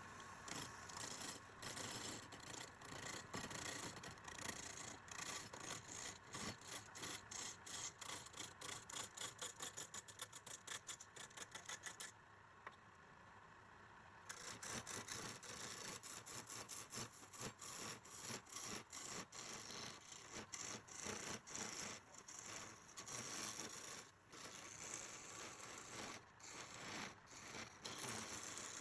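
Rapid back-and-forth scraping strokes of a hand tool worked over a surface, about four strokes a second at their fastest, with a pause of about two seconds near the middle.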